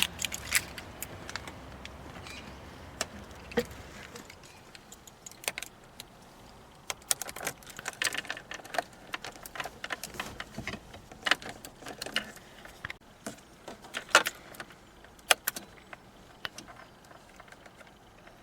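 Scattered sharp clicks and light rattles of handling, with no engine running yet. A low rumble underneath stops about four seconds in.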